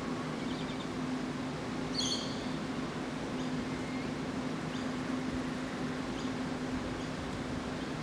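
A steady low mechanical hum over background noise, with one short, high bird chirp about two seconds in and a few fainter chirps after it.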